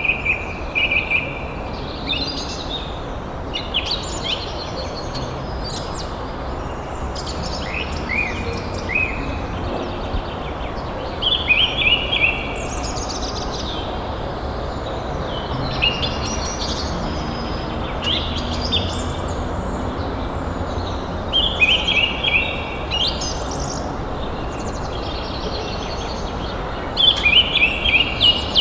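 Songbirds singing in short chirping phrases that recur every few seconds, over a steady outdoor background hiss.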